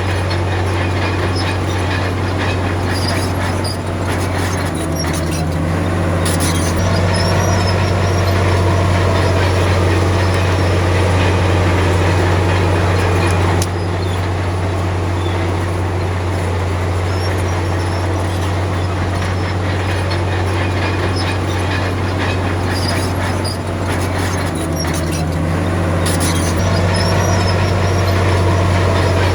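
Komatsu D53P bulldozer's heavy diesel engine running steadily, with two brief shifts in engine note, about five seconds in and near the end, and faint high squeaks over the drone.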